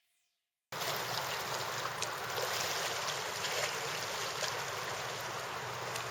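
Steady rush of flowing river water, cutting in suddenly just under a second in after a moment of silence, with a few faint clicks.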